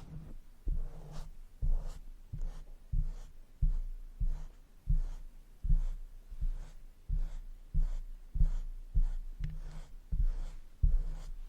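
Makeup brush stroked and tapped against a microphone in a steady rhythm, about one and a half strokes a second. Each stroke is a muffled low thud with a faint swish on top.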